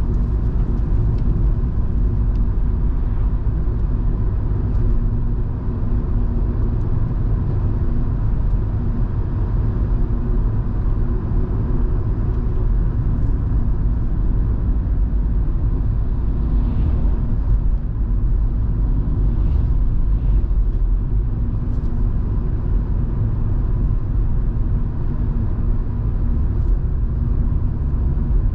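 In-cabin sound of a Volvo V70 2.5T on the move: steady low engine and road rumble from its turbocharged five-cylinder petrol engine and tyres, with faint light ticks over the top.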